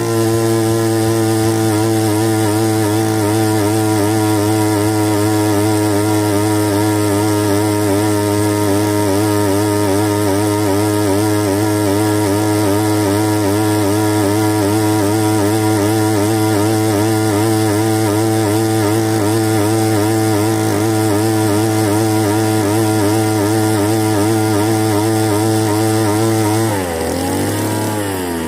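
Bernard Moteurs W14 15 HP engine running, its note wavering up and down in a steady rhythm. Near the end the pitch dips and the sound drops a little in level.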